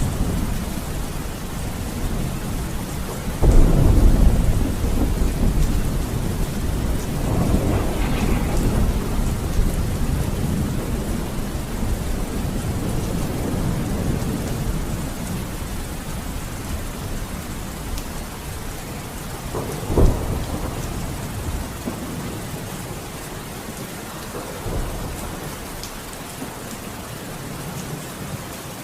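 Steady rain with thunder. A loud clap comes about three and a half seconds in and rumbles on for several seconds, more rumbling follows around eight seconds, and a sharp crack comes about twenty seconds in.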